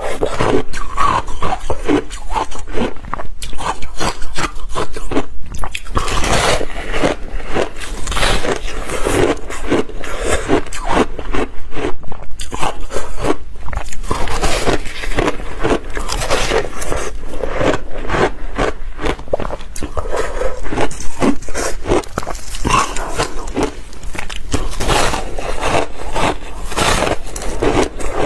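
Close-miked crunching of ice being bitten and chewed in big bites: a dense, irregular run of sharp cracks and crunches.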